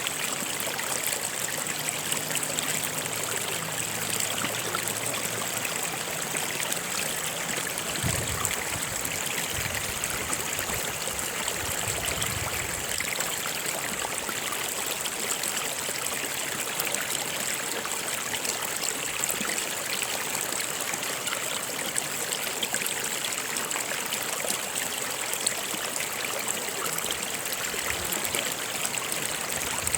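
Stream water flowing steadily over rocks: a continuous rushing, trickling noise.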